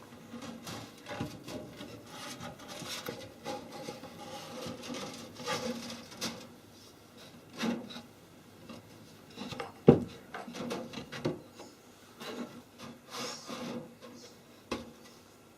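Wooden beehive parts scraping and rubbing against each other in irregular strokes, with a sharp wooden knock about ten seconds in.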